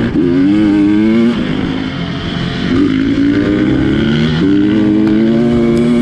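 GasGas dirt bike engine revving hard, its pitch climbing, dropping a little over a second in, then climbing again from about three seconds in and holding high.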